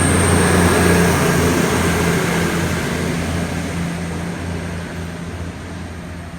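Passenger train running past with a low hum and a thin high whine, growing steadily fainter as it pulls away.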